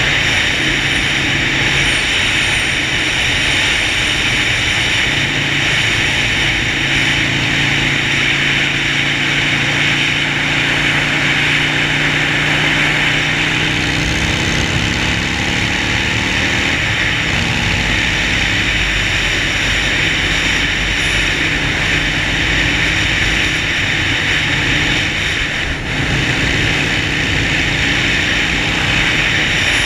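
Harley-Davidson Sportster Forty-Eight's V-twin engine running steadily on the move under a constant rushing hiss. The engine note shifts slightly in pitch around the middle.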